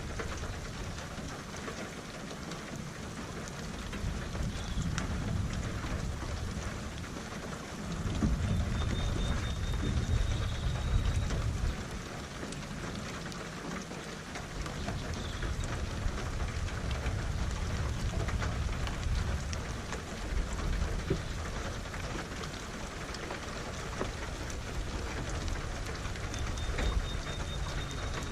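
Steady rain falling, with deep rolling thunder that rises and fades, loudest about eight to twelve seconds in.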